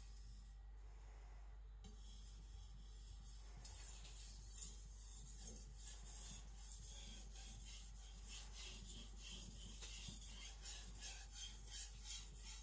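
Knife edge of an aogami carbon-steel gyuto stroked back and forth with very light pressure on a wet Naniwa Professional 5000-grit whetstone: a faint, rhythmic scraping. The strokes pause briefly at first and start again about three and a half seconds in.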